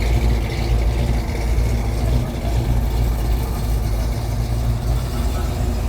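Ford Mustang's engine running with a deep, steady low rumble as the car rolls slowly past at low speed.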